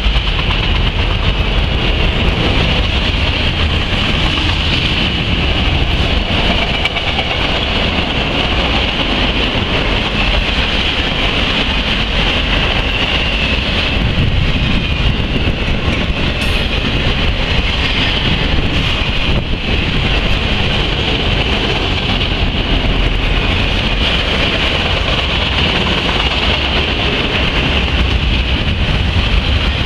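Freight train of autorack cars rolling steadily past close by: a continuous low rumble of steel wheels on rail with a steady high hiss running through it.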